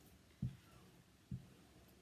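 Two faint, low, soft thuds about a second apart, part of a steady once-a-second rhythm.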